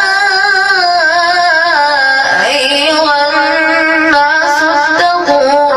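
A young boy's high voice chanting Quran recitation in a melodic tajwid style, with long held notes that waver and turn in pitch. There is a brief breath break about two seconds in and another near the end.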